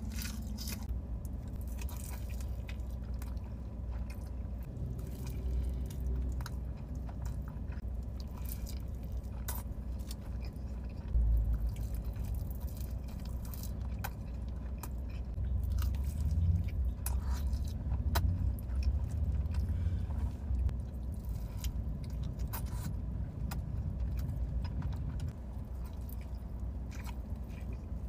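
Close-up eating sounds: chewing and biting, with scattered mouth clicks and smacks. Under it runs a steady low rumble from inside a car.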